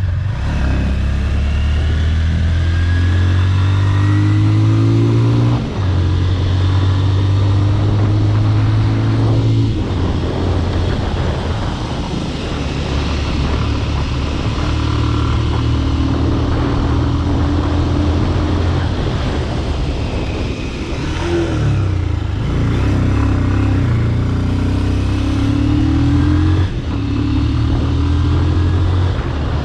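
Bajaj Pulsar RS200 motorcycle with a modified exhaust, ridden under way: its single-cylinder engine revs climb and drop back at several gear changes, with sharp breaks about six seconds in and near the end. Wind noise runs under the engine.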